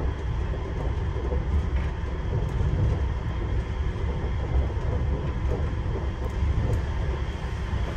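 Nippori-Toneri Liner rubber-tyred automated guideway train heard from inside the cabin, running and pulling into a station: a steady low rumble with a faint steady hum above it.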